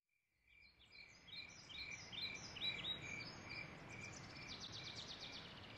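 Faint birdsong: a short chirp repeated about twice a second, with swooping whistled calls over it and a fast trill near the end, over a soft background hiss.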